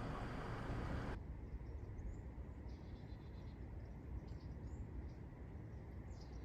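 A broad hiss cuts off abruptly about a second in. Then, over a low rumble, small birds give scattered short, high-pitched chirps.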